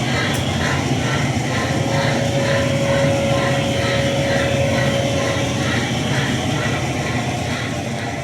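Steam locomotive sound effects from an HO-scale Broadway Limited Imports model: rhythmic exhaust chuffs at about two to three a second over a steady low rumble. A steady tone runs through the middle few seconds.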